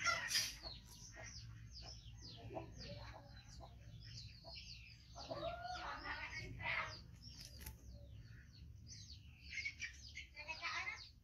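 Birds chirping and calling in the background: many short chirps throughout, with a louder, longer call about five to seven seconds in, over a steady low hum.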